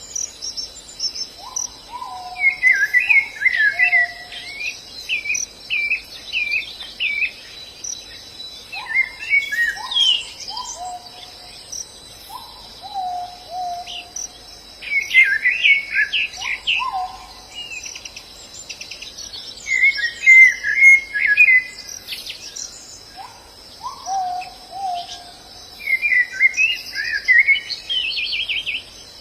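White-eyes (pleci) singing in quick, high twittering phrases every few seconds. Between them come lower whistled notes that drop in pitch, over a steady high drone of insects.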